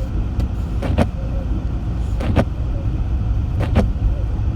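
Steady low rumble of a car driving on a snowy road, heard from inside the cabin. Windshield wipers sweep the glass about once every one and a half seconds.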